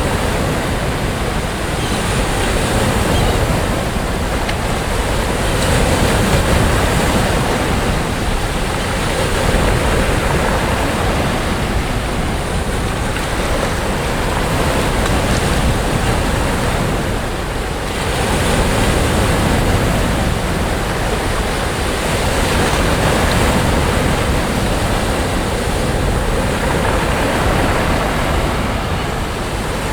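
Sea waves breaking on a sandy beach, a continuous surf wash that swells and eases every few seconds, with some wind on the microphone.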